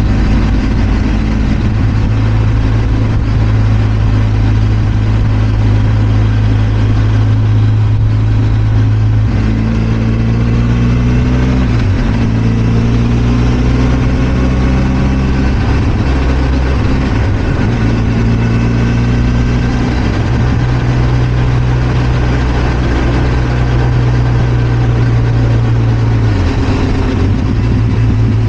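Benelli TRK 502 X's 500 cc parallel-twin engine running steadily on the road, its pitch stepping up about nine seconds in, dipping briefly a couple of times, and falling near the end.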